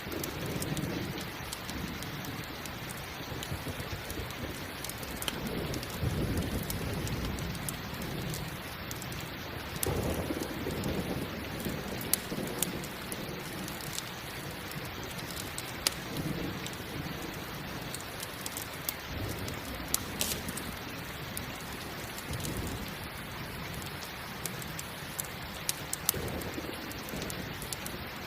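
Steady rain with low rolls of thunder swelling several times, and sharp crackles and pops from a campfire scattered through it.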